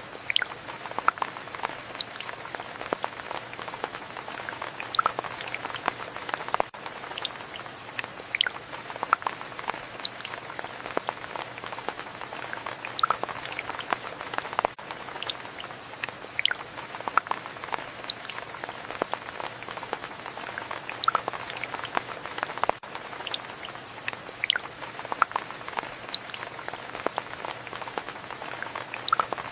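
Steady rain falling, with many individual drops ticking and dripping close by over a soft continuous hiss. The same stretch of rain repeats about every eight seconds, a loop.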